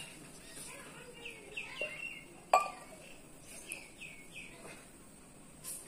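A bird chirping in short runs of quick falling notes, and one sharp clink about two and a half seconds in, the loudest sound.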